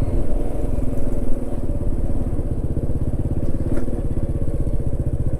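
Small Honda Dream step-through motorbike engine running steadily at an even, unchanging speed, close to the microphone.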